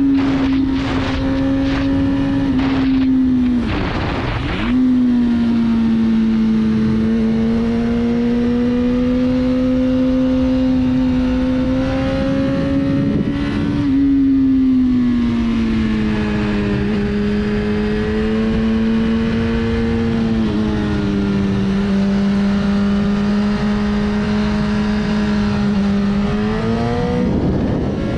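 BMW S1000RR inline-four engine pulling steadily on the road, with wind buffeting the microphone. The engine note dips briefly about four seconds in, drops to a lower pitch about halfway through, and rises again near the end.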